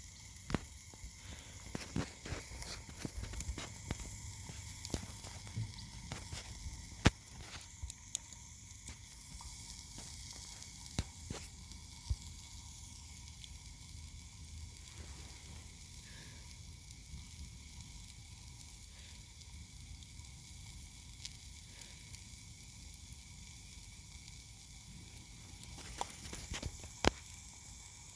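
Campfire cooking: a steady sizzling hiss with scattered sharp pops and crackles, more frequent in the first half and again near the end.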